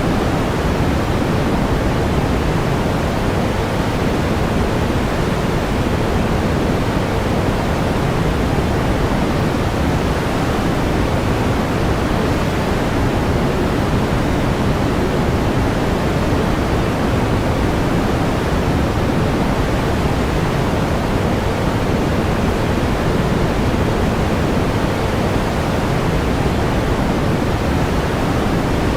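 Steady pink noise, an even hiss weighted toward the low end, with no change or events.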